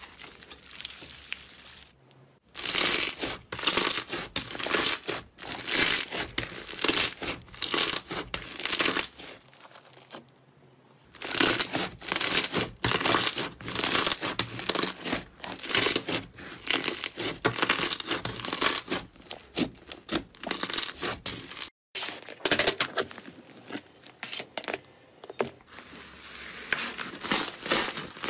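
Slime being squeezed, stretched and pressed by hand: a quick string of wet crackles and pops. It is broken by a brief near-silent pause about a third of the way in and a short dropout near two thirds.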